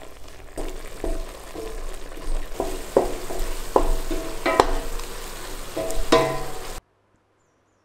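Sliced mushrooms sizzling in garlic butter in a steel pan, with a spatula scraping and stirring them several times. The sound cuts off suddenly near the end.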